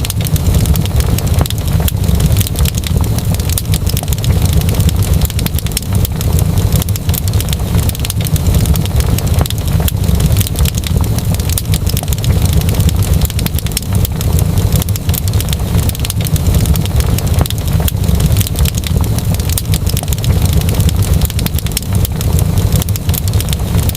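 Wood fire crackling, with dense irregular pops and snaps over a steady low rumble of the flames.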